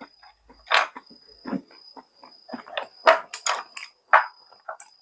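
A person chewing and smacking food close to the microphone: a string of irregular wet mouth noises, loudest about three and four seconds in.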